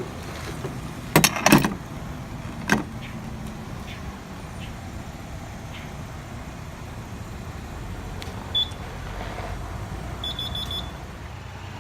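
Car engine idling with a steady low hum, with a few sharp knocks about a second in and again near three seconds. Near the end a car's electronic warning chime beeps, once and then in a quick run of about five high beeps.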